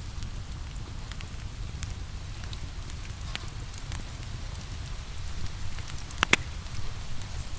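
Wood fire crackling in a fireplace: a steady low rumble of burning logs with scattered sharp crackles and one loud pop near the end, over a faint hiss of rain.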